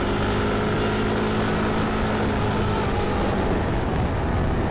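Yamaha Tricity 155 scooter on the move: its single-cylinder engine running steadily under wind and road noise, with a faint engine drone that fades out about three and a half seconds in.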